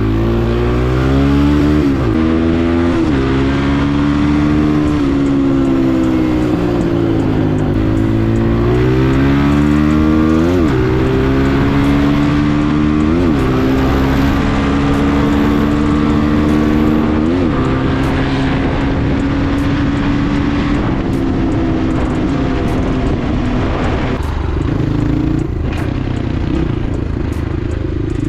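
Off-road motorcycle engine running under throttle, its pitch swelling and dipping, with several quick, sharp rev blips.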